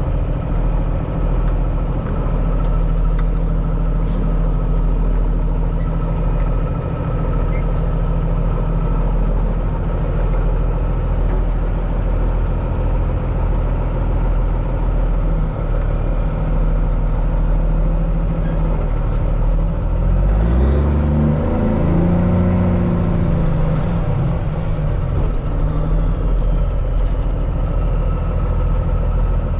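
Heavy diesel truck engine idling steadily, with a brief engine sound rising and then falling in pitch about twenty seconds in.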